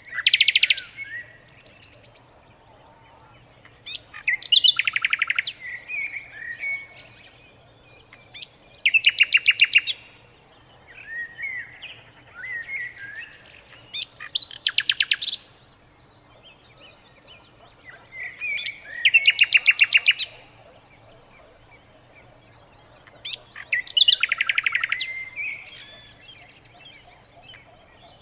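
A songbird singing: a loud, rapid trill phrase repeated six times, about every four to five seconds, with softer chirps and twitters between the phrases.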